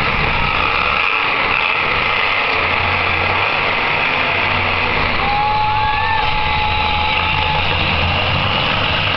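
Monster truck engines running loudly and steadily. A held high tone sounds for about two and a half seconds from about five seconds in.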